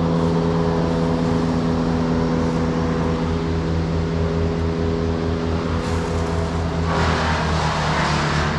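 Large engine of heavy equipment running steadily at an even pitch. About seven seconds in, a rush of hissing noise joins it for a second or so.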